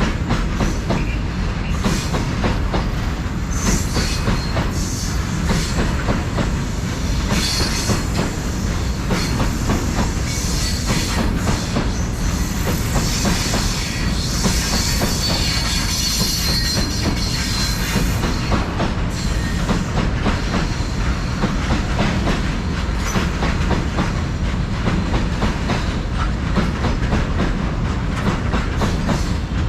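Oil tank wagons of a freight train rolling past, steel wheels clicking steadily over the rail joints over a continuous low noise. A high-pitched wheel squeal comes in about seven seconds in and fades out about eighteen seconds in.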